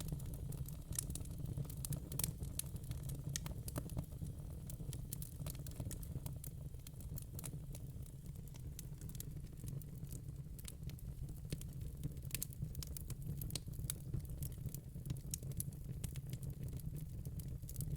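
Crackling fire: irregular snaps and pops, several a second, over a steady low rumble.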